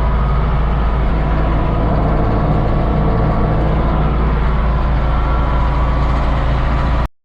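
A vehicle engine running steadily, close and loud, with a heavy low rumble and no rise or fall in pitch; it cuts off abruptly near the end.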